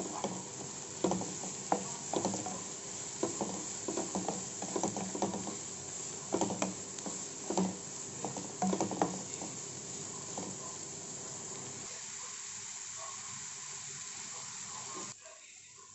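Chopped onions frying in hot oil in a kadai: a steady sizzle, with a spatula knocking and scraping against the pan through the first ten seconds or so. The sound drops away sharply near the end.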